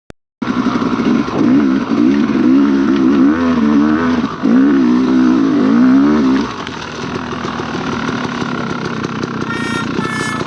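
Dirt bike engine revving hard, its pitch wavering up and down, then dropping back to a lower, steadier run about six and a half seconds in.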